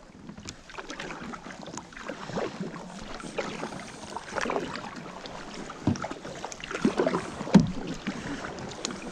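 Kayak paddling through shallow creek water: paddle strokes splashing and dripping, with a few sharp knocks, the loudest between about six and eight seconds in, as the paddle strikes the creek bottom.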